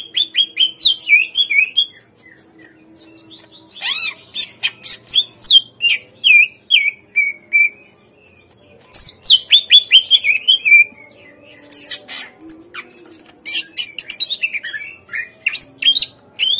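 Cucak ijo (green leafbird) singing loud phrases of rapid sharp chirps and falling whistled notes, four bursts with short pauses between them.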